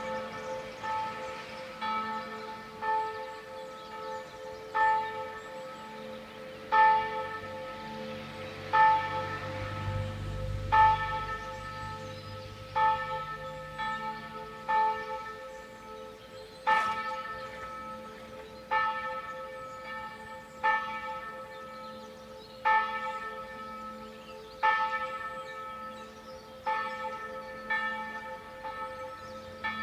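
Church bells tolling, with a strike about every second and every other stroke louder, each ringing on into the next over a steady hum.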